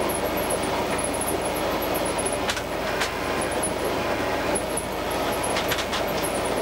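Diesel suburban railcar running along the track, heard from the driver's cab: a steady rumble and hum, with a few sharp clicks about two and a half and three seconds in and a short run of clicks near the end.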